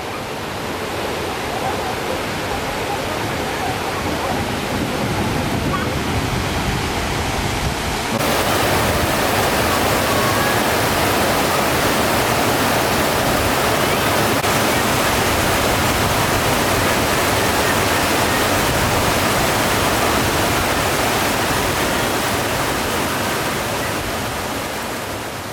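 Rushing water of a waterfall, a steady full roar; about eight seconds in it jumps louder and brighter, as if heard from nearer the falling water.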